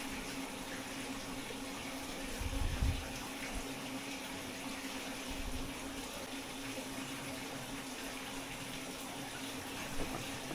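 Water running steadily from a kitchen tap, with a steady low hum beneath it and a brief low thump about three seconds in.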